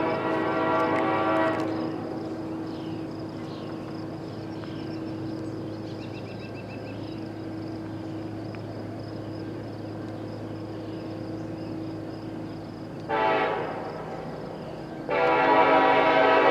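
Diesel freight locomotive air horn sounding: a long blast ends about two seconds in, a steady locomotive rumble follows, then a short blast and a long blast come near the end. This is the short-then-long close of the grade-crossing signal.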